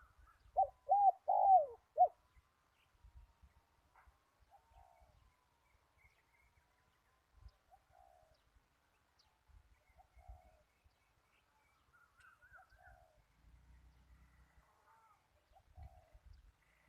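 Zebra dove cooing: a loud run of four quick, arched coo notes about half a second in, then fainter coos recurring every second or two.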